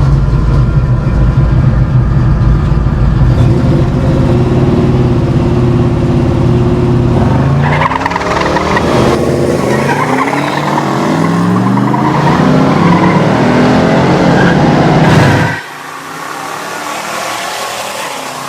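V8 drag-race cars at full throttle: a loud, heavy rumble, then from about seven seconds in the engine note climbs in repeated rising sweeps as they accelerate away up through the gears. The sound drops off suddenly about fifteen seconds in.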